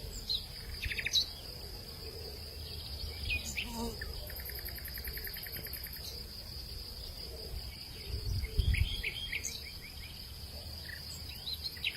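Hillside evening ambience: a steady high-pitched insect drone with birds chirping here and there. A rapid trill runs for about a second and a half some four seconds in, and a low rumble of wind swells briefly near the two-thirds mark.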